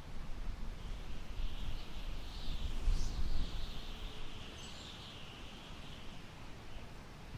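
Summer wind gusting through tall grass, with a low rumble of wind on the microphone that swells about three seconds in. A high, wavering chirping runs under it from about a second in until near the end.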